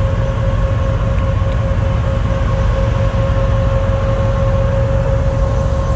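Steady low rumble of a vehicle engine running close by, with a constant whine held throughout.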